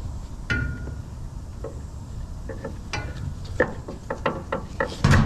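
Scrap being handled and loaded: one clank with a short metallic ring about half a second in, then a run of quick knocks and rattles, with a loud bang near the end.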